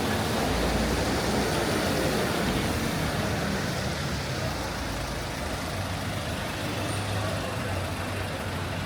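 Steady rain hiss on a wet city street, with the low hum of a motor vehicle's engine running close by. Both are a little louder in the first few seconds.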